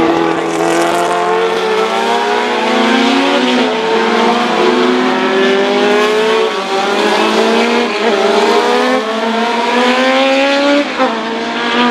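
Racing cars accelerating hard past the track, several engines at once. Each engine's pitch rises steadily and then drops sharply at each upshift, about four times over the stretch.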